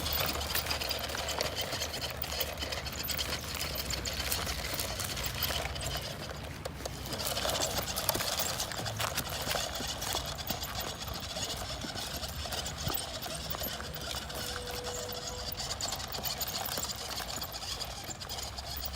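Small electric motor of a toy monster truck whirring as it drives, with dense clicking and rattling from its wheels on the ground.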